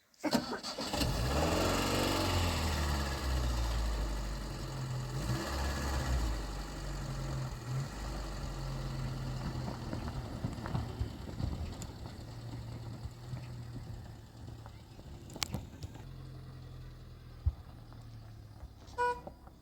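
A motor vehicle's engine starts abruptly and runs with a steady low hum. The louder noise of the start dies away gradually, and a few light clicks come near the end.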